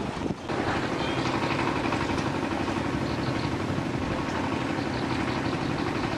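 An engine running steadily, coming in about half a second in after a brief drop.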